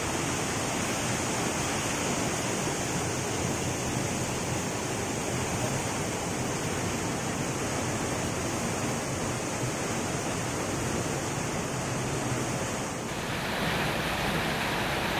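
Fast-flowing floodwater of a swollen river rushing steadily. About two seconds before the end the sound changes abruptly.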